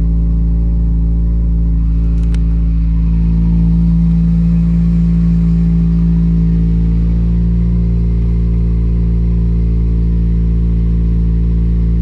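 2017 Subaru WRX's turbocharged flat-four engine idling steadily shortly after a cold start, swelling slightly about four seconds in.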